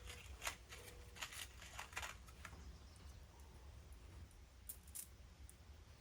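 Light clicks and clinks of small metal hardware being handled, a quick run in the first two and a half seconds and two more near the end, over a faint low hum.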